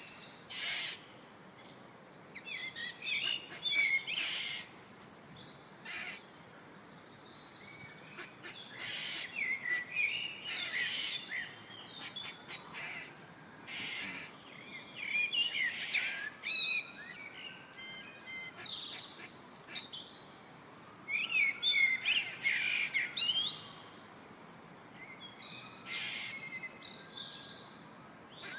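Birdsong: several birds chirping and calling in short bursts that overlap, with brief lulls between them, over a faint steady hiss.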